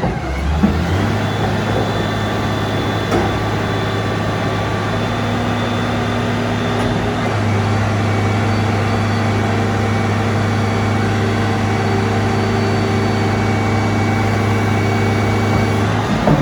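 Isuzu 6BG1 six-cylinder diesel engine of an STMA FD120 12-ton forklift, running at a steady speed. A brief knock comes about half a second in.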